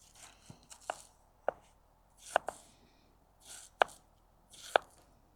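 Grohmann No.3 boat knife slicing through food onto a cutting board, about five strokes: each a short rasp of the blade cutting, ending in a sharp tap as the edge meets the board.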